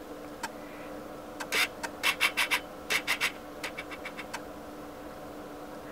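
A dozen or so short scratchy rustles and clicks in quick groups, like things being handled and shifted.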